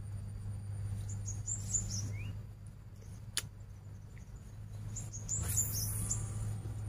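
Small birds chirping in short, high, falling notes, a few at a time in two spells, over a steady low hum. Near the end comes a brief swish of the spinning rod being cast.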